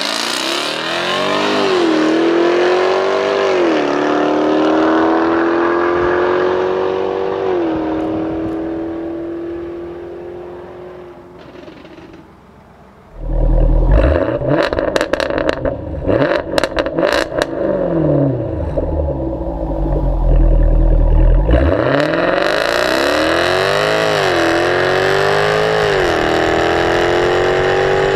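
2016 Jaguar F-Type R's supercharged V8 accelerating hard through the gears, its pitch climbing and dropping back at each upshift, then fading away. About 13 seconds in, a loud stretch of deep rumble with a run of sharp exhaust cracks cuts in. About 22 seconds in, the engine pulls through the gears again.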